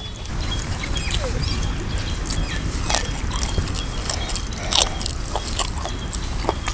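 A man eating chicken curry and rice with his hand: wet chewing and lip-smacking, many short sharp smacks scattered throughout, over a steady low rumble.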